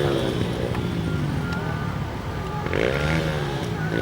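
Dirt bike engines revving up and down, with a fresh burst of revving about three seconds in.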